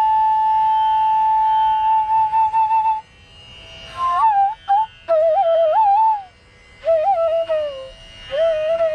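Bansuri (bamboo flute) playing raag Chandrakauns unaccompanied. It holds one long note for about three seconds with quick ornaments at its end, then plays short phrases with slides between notes, split by brief breath pauses, and settles into another held note near the end.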